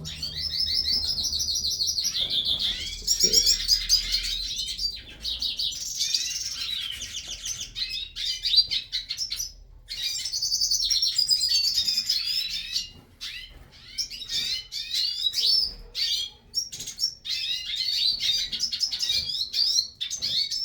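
Caged hooded siskins (Brazilian pintassilgos) singing a long, rapid twittering warble, broken by a few short pauses, as the birds start warming up into song.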